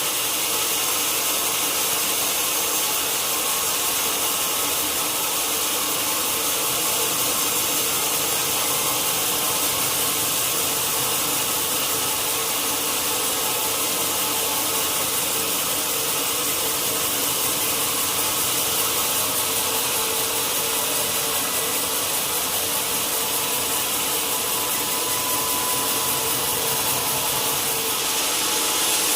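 Sawmill saw cutting steadily through a large log: a continuous, even rasp of blade on wood with a few steady tones of the running machine underneath.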